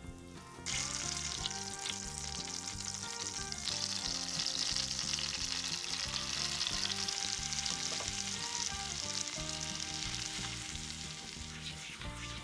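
Food sizzling and frying in hot oil in a pan or pot. The sizzle starts abruptly just under a second in and holds steady until shortly before the end.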